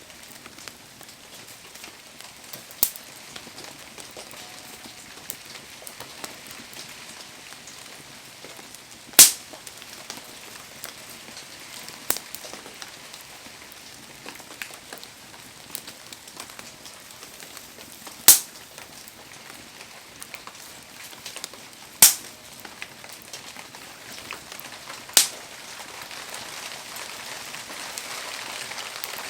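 Wood fire burning in the rain: a steady hiss of rain and fire, broken by about half a dozen sharp pops from the burning wood, spaced several seconds apart.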